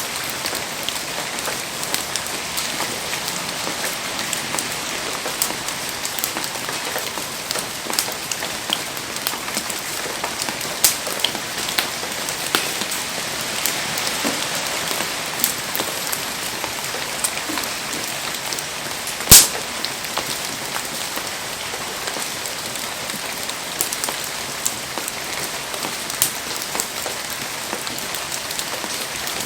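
Heavy rain falling steadily, with many scattered sharp ticks of drops striking and one much louder single crack about two-thirds of the way through.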